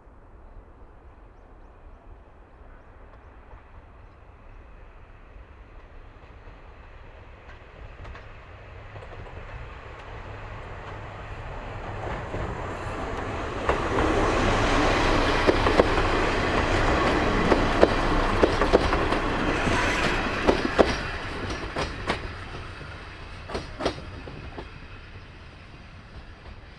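Diesel railcar passing close by, growing louder as it approaches and fading as it goes. Its wheels clack sharply over the rail joints while it goes past, with a few last clacks near the end.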